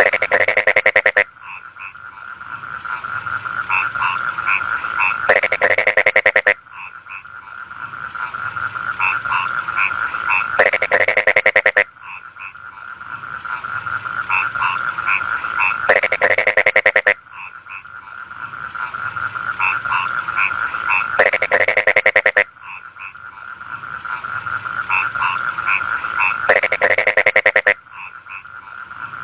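Rice-field frogs croaking in chorus: a steady chorus of calls, broken about every five seconds by a louder burst of rapid croaks lasting about a second, over a steady high hiss.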